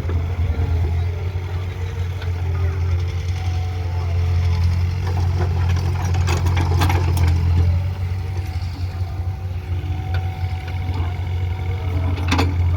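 Diesel engine of a JCB digging machine running steadily with a deep drone. Sharp knocks come around the middle and again near the end.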